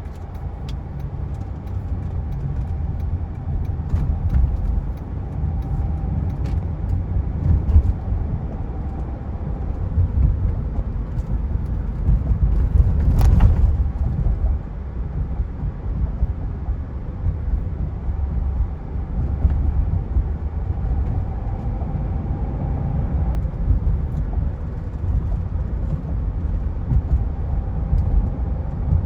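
2008 Mercedes-Benz E320 Bluetec with its OM642 V6 turbo diesel, driving: a steady low rumble of engine and road noise. A brief sharp sound comes about 13 seconds in.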